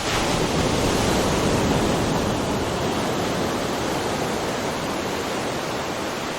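Ocean surf: a wave washing in, loudest in the first couple of seconds, then a long hiss that slowly fades as the water draws back.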